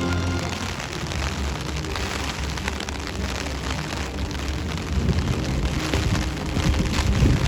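Heavy typhoon rain pouring down with a steady hiss, with a low rumble underneath that grows louder and more uneven in the last few seconds.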